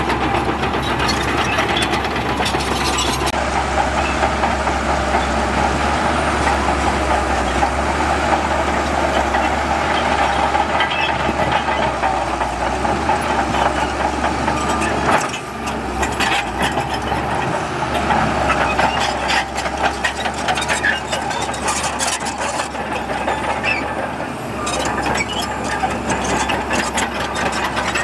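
Heavy diesel earthmoving machinery running steadily, with a brief drop in level about halfway through.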